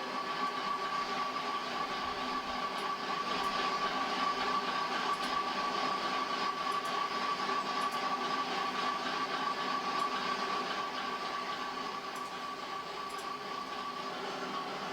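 Recorded idling sound of JNR diesel railcars played back on an N-gauge model layout: a steady engine rumble with a constant high whine.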